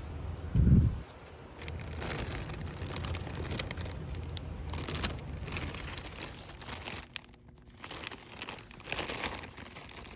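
Plastic packaging crinkling and rustling as it is handled, after a single low thump near the start.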